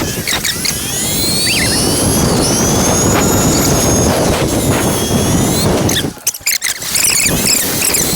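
Electric dirt bike being ridden, its motor whine rising and falling in pitch with speed over rushing wind and tyre noise. The noise drops out briefly about six seconds in.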